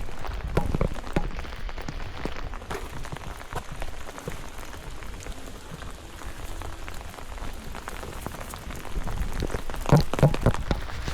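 Steady rain with many scattered drops striking close by, over a low rumble. A few louder knocks land together about ten seconds in.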